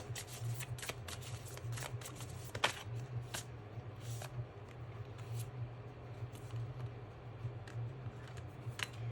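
A tarot card deck being shuffled and handled: a run of short, sharp card flicks, thicker in the first half and sparser later, over a steady low hum.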